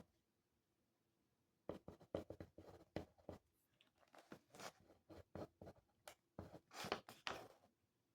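Writing by hand on paper: a run of short, irregular scratching strokes and small taps that begins a couple of seconds in and stops shortly before the end.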